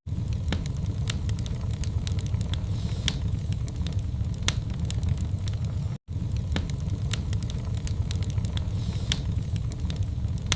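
Wood fire burning in a fireplace: frequent sharp, irregular crackles and pops over a steady low rumble of flame. The sound cuts out for an instant about six seconds in.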